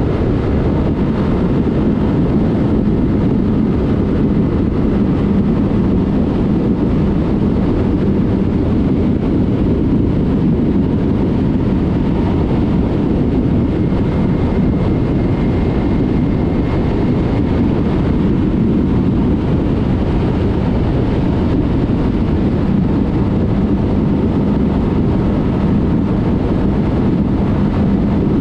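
Yamaha MT-03 motorcycle with an aftermarket Mivv exhaust running at a steady cruise, its engine note holding an even pitch with no revving.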